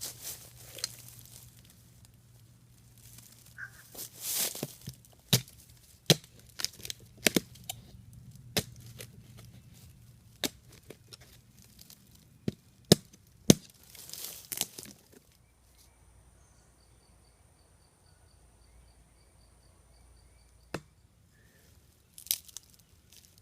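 Dead pine wood being chopped and broken apart for fatwood: sharp cracks and snaps at irregular intervals, several of them loud. After about fifteen seconds it goes quiet apart from a faint high steady tone and soft ticking, and a few more cracks come near the end.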